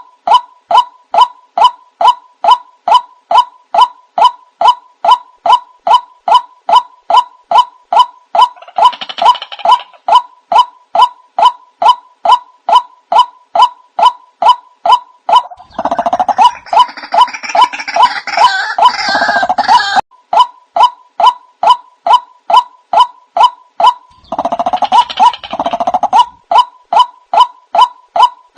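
White-breasted waterhen (ruak-ruak) calls used as a bird lure: a steady run of short, repeated notes, about two to three a second. Three times, about 9 s in, from about 16 to 20 s, and around 25 s, it breaks into a harsher, denser burst of calling.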